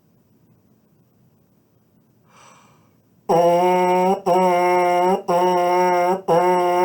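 A trombone/baritone mouthpiece buzzed on its own after a quick breath in. It plays four short tongued notes, all on the same low pitch, separated by brief gaps, starting about halfway in.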